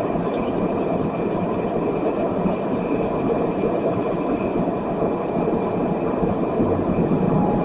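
Steady rumble of jet engines and airflow heard inside an airliner cabin, with a faint steady whine above it.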